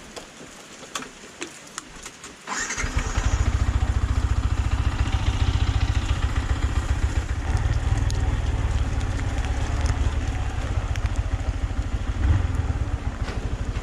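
Yamaha MT-15 motorcycle's single-cylinder engine starting about two and a half seconds in, then idling steadily with a fast, even beat.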